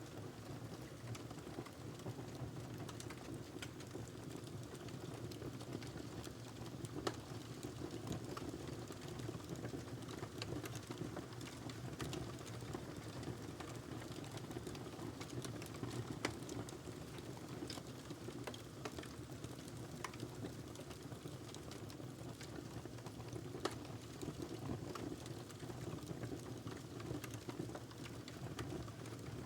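Wood fire burning in a fireplace: a steady low rumble of flames with frequent irregular crackles and pops, a few sharper pops now and then.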